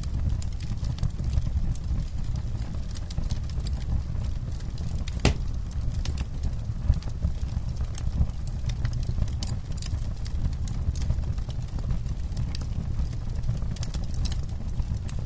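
Campfire burning, with many small irregular crackles and pops over a steady low rumble, and one louder pop about five seconds in.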